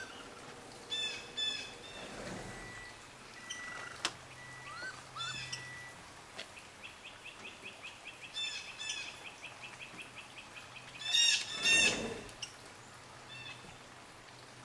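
Birds chirping and calling: scattered high chirps and a thin whistled note, a rapid run of chirps of about six a second in the middle, and a louder, harsher burst of calls about eleven seconds in.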